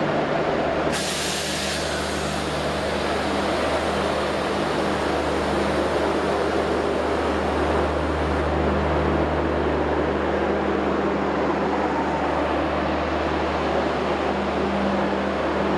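Train moving slowly past: a WAM4 electric locomotive, then LHB air-conditioned coaches, with a steady low hum and rolling noise. A brief hiss about a second in.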